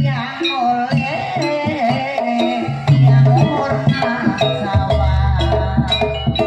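Jaranan dance music: a drum-led percussion pattern with pitched gamelan-style instruments and a wavering melody line over it, and a low steady tone coming in near the end.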